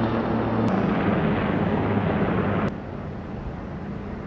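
Steady engine drone with a low hum and rushing noise outdoors, dropping sharply in level about two-thirds of the way through to a quieter, steady hum.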